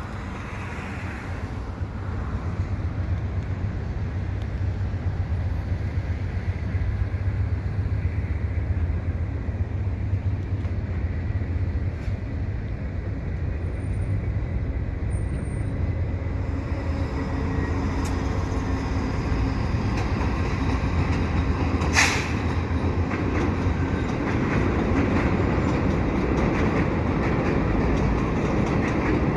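Via Rail passenger train led by a P42 diesel locomotive running over a rail bridge, with a steady low engine rumble. Wheel and rail noise builds and grows louder through the second half. There is a single sharp clank about three-quarters of the way through.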